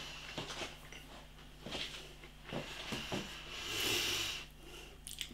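A person chewing a thick, stodgy mouthful of crunchy peanut butter on toast, with small scattered mouth clicks, and one long deep breath about four seconds in.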